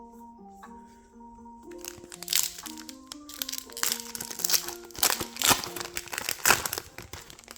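Plastic-foil trading card pack crinkling loudly as it is handled and opened, starting about two seconds in and stopping just before the end, over soft background music with gentle keyboard notes.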